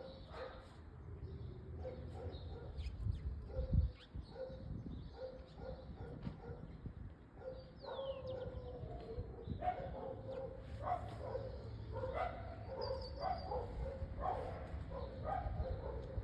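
Small dogs barking and yipping in quick repeated barks that grow busier in the second half, with a bird's falling chirp and a short high trill among them. A single dull thump comes about four seconds in.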